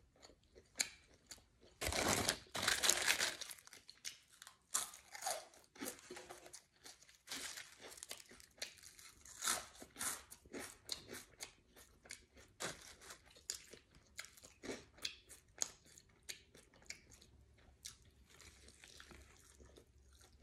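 A person crunching and chewing Tom's Hot Fries, crunchy corn snack sticks, with a loud stretch of crunching about two seconds in, then a steady run of smaller crunches and chews.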